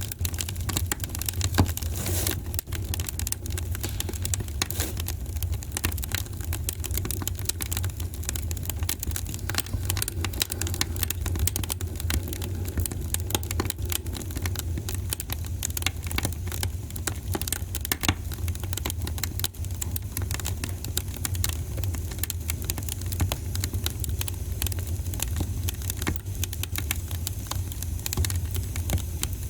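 Wood fire crackling in a fireplace: a dense, irregular stream of small pops and snaps over a steady low rumble.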